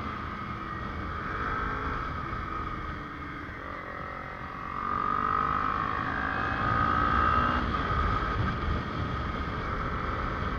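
Kawasaki Ninja 250R parallel-twin engine running under way through an R9 Racing aftermarket exhaust, with wind rush on the microphone. The engine eases off, then picks up again about halfway through.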